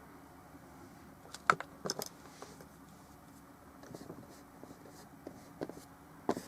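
A few light clicks and knocks of small hard objects being handled: a sharp click about one and a half seconds in, a quick cluster just after, and a few fainter ones near the end, over a faint steady room hum.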